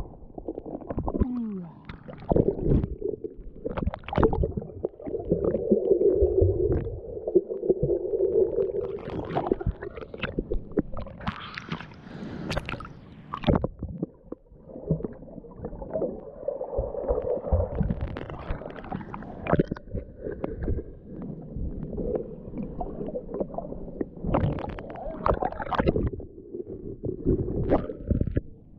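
Sea water gurgling and sloshing around the camera, with irregular bubbly splashes coming and going.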